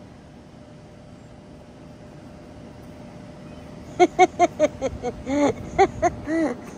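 Steady low background noise for about four seconds, then a person's voice in a quick run of short, pitched syllables that the recogniser did not take down as words.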